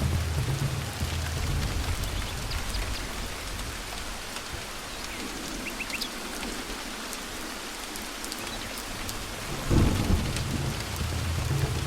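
Steady rain with thunder. A low rumble fades away over the first few seconds, then a sudden loud thunderclap comes about ten seconds in and is followed by more rumbling.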